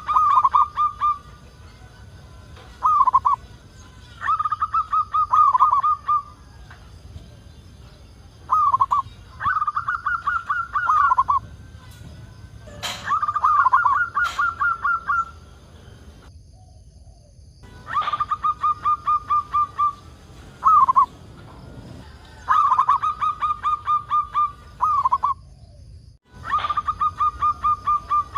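Zebra dove (perkutut) singing repeatedly, each phrase a short opening coo followed by a fast rattling run of cooing notes, about six phrases in all.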